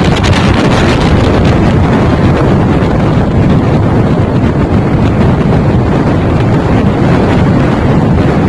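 Strong storm wind buffeting the microphone: a loud, steady low rumble of wind noise.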